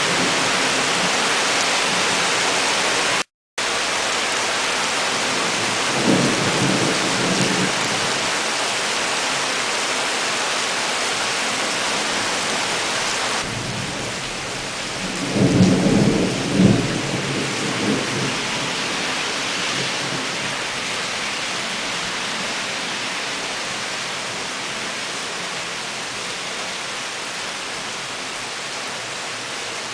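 Torrential rain pouring steadily, with thunder rumbling twice: a short rumble about six seconds in and a louder, longer one about halfway through.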